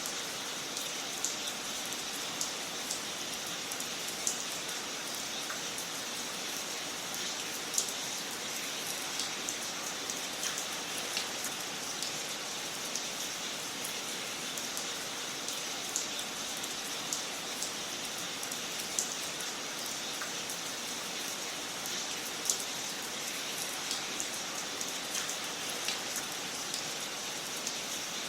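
Wood fire crackling in a fireplace: a steady hiss with frequent small snaps and pops, and a louder pop every few seconds.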